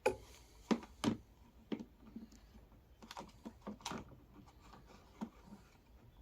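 Irregular light plastic clicks and taps from a ride-on toy's plastic dashboard part being handled.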